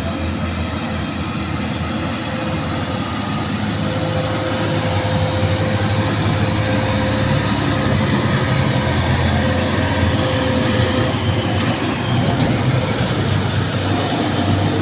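Heavy truck engine running, a steady low drone that grows gradually louder. A thin steady whine sits above it for several seconds in the middle.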